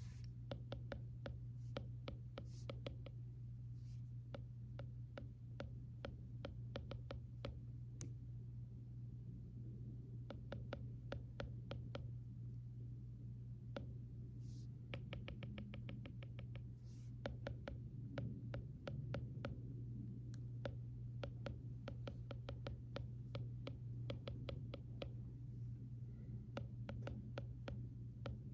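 Stylus tapping and writing on an iPad screen: many small, irregular clicks, with a quick run of even taps around the middle, over a steady low hum of background white noise.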